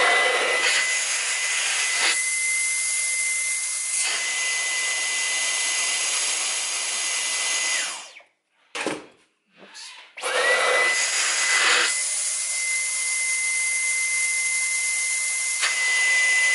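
Dyson V11 Animal cordless stick vacuum running in boost mode, a steady high-pitched whine over a rush of air. It switches off about eight seconds in, a couple of short knocks follow, and it starts up again about two seconds later.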